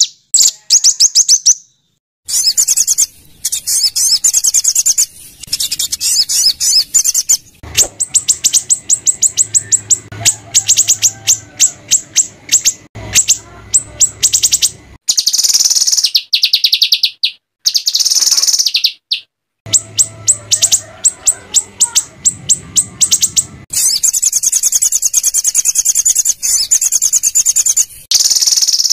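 White-rumped shama (murai batu) song, high-pitched and delivered in fast bursts of harsh, rapid repeated notes and trills. The bursts are cut apart by short, abrupt silences, as in an edited training track.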